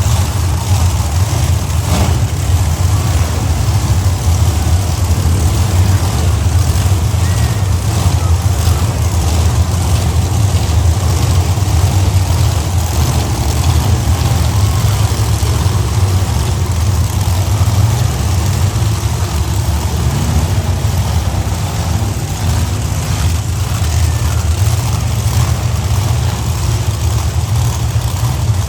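Monster truck engines running steadily, a loud, deep, continuous rumble.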